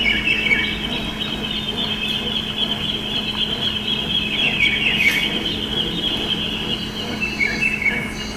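A bird singing a continuous, high, rapid warbling chatter, over a steady low hum.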